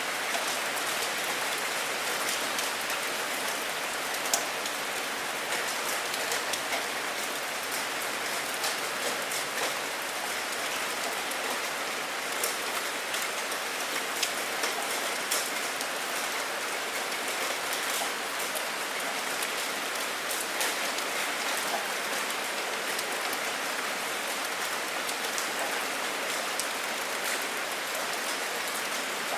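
Steady rain falling, an even hiss with scattered sharp drip clicks, one louder drip about four seconds in.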